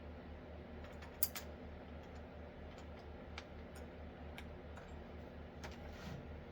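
A few scattered light clicks and taps, the loudest about a second in, over a steady low pulsing hum.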